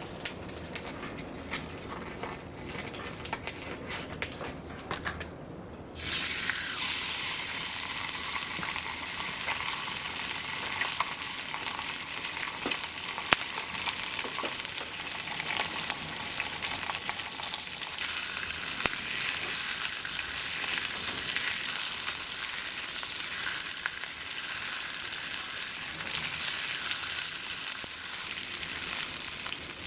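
Food sizzling on the grill net of a home-made stainless-steel fire pit. It starts suddenly and loudly about six seconds in and runs on as a dense, steady crackling hiss. Before that there are faint scattered crackles and clicks.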